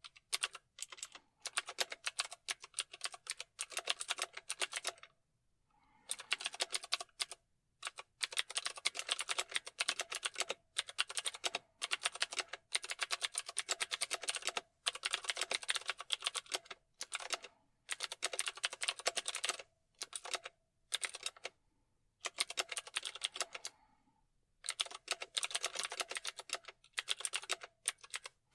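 Typing on a computer keyboard: fast runs of key clicks lasting a few seconds each, broken by short pauses, the longest about 5 seconds in and 22 seconds in.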